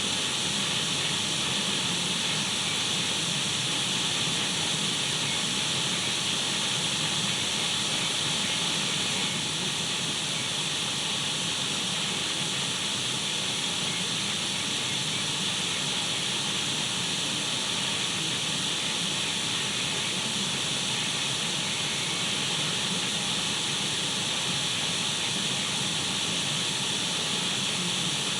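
Untuned radio static: a steady, unbroken hiss of white noise, brightest in the upper-middle range.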